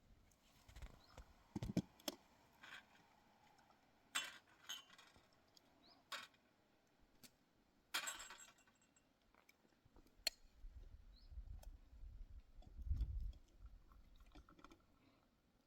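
Scattered light clinks and knocks of small hard objects being handled, with a low rumble in the last third.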